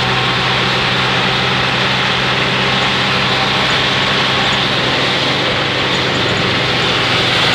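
Steady drone of a bus engine with an even hiss of tyre and rain noise on a wet road, heard from inside the bus.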